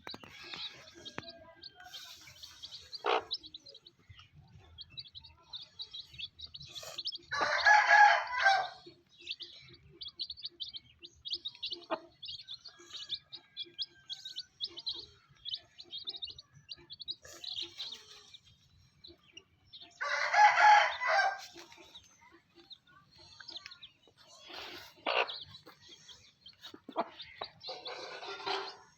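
Chicks peeping constantly in high, rapid notes while a rooster crows twice, loudly, about 7 and 20 seconds in, each crow about a second and a half long.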